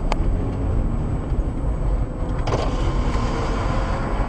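A motor vehicle driving, with a steady low rumble of engine and road noise.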